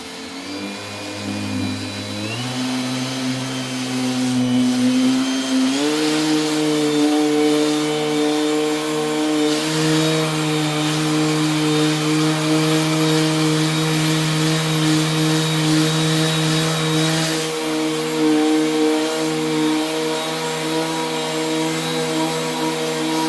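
Parkside PAEXS 20 LI B2 cordless orbital sander running against spray-lacquered softwood. Its motor tone steps up in pitch twice in the first six seconds as the speed is turned up, then holds steady, with a rough sanding hiss underneath.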